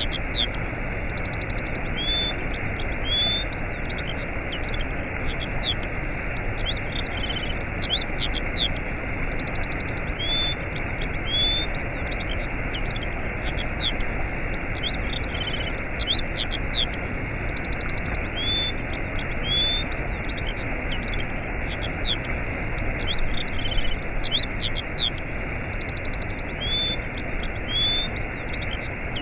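Steady rush of a waterfall with many small birds chirping and trilling over it. The same run of calls repeats about every eight seconds.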